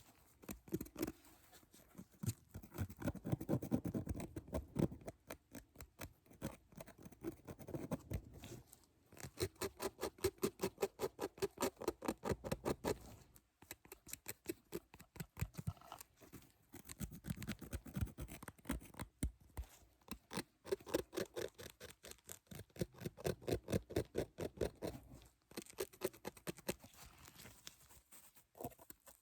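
Close-miked ASMR trigger sounds: quick, evenly spaced tapping and scratching strokes, several a second, in runs of a few seconds with brief pauses.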